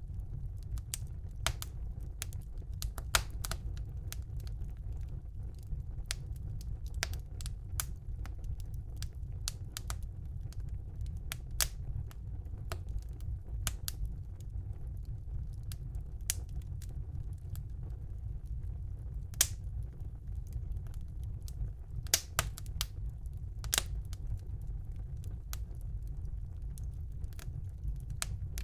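Fire burning in a fireplace, crackling: irregular sharp pops and snaps, a few of them louder, over a steady low rumble of the flames.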